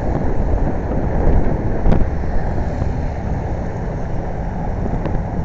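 Wind rushing over the microphone while riding, a steady low rumble mixed with road noise, with a brief knock about two seconds in.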